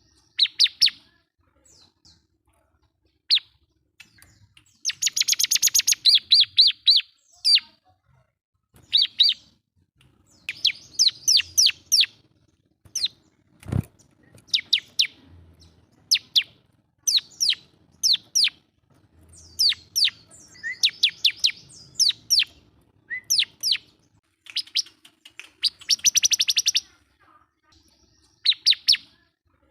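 Bar-winged prinia (ciblek) singing in bold bursts of sharp, repeated chirps and fast trills, with short pauses between phrases: the full, challenging song of a bird calling out to a rival. A single sharp click sounds near the middle.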